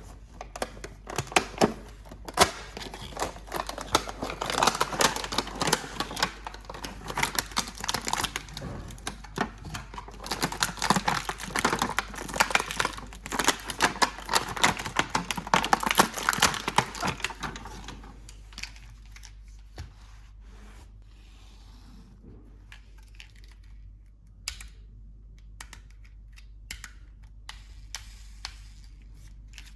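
Hands unpacking and handling a plastic toy and its packaging: a dense run of clicks, taps and crinkles, which thins to a few scattered clicks about two-thirds of the way through.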